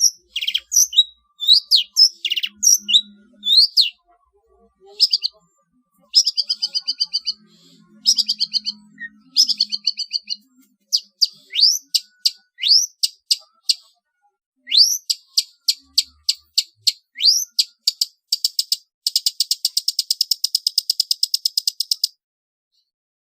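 Long-tailed shrike (cendet) singing a rapid, varied string of sharp chirps and quick whistled sweeps, with mimicked calls of other birds worked in. Near the end comes a fast buzzy trill that stops abruptly.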